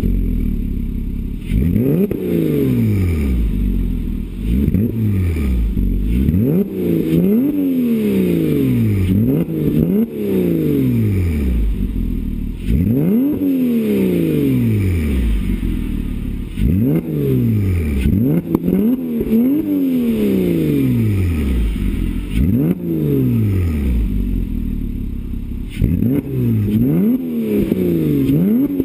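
2006 Porsche Cayman S 3.4-litre flat-six, breathing through an FVD Brombacher sound-version exhaust, revved over and over about every two seconds: each blip rises quickly and falls back more slowly.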